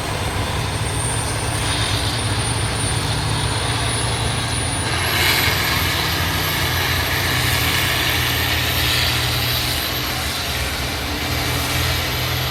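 Antique International tractor pulling a weight sled, its engine running steadily under load. A thin high whine climbs slowly, then jumps higher about five seconds in and holds.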